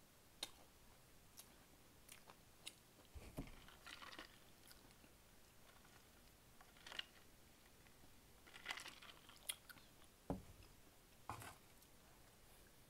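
A person eating close to the microphone: quiet chewing with scattered crunches and short mouth clicks, a few louder crackly bites spread through.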